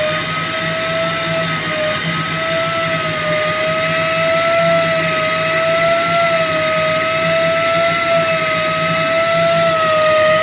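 Portable on-site crankpin grinding machine running, its motor and wheel giving a loud, steady, slightly wavering whine over a rushing noise, during grinding of a crankpin undersize.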